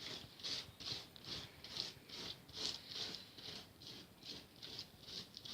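Paintbrush spreading glue over a polystyrene foam sheet in quick back-and-forth strokes, a soft scratchy swish about two and a half times a second.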